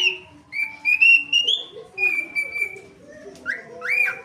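Parakeet whistling. It gives a quick rising chirp, then two drawn-out, slightly rising whistles, then two short upswept whistles near the end.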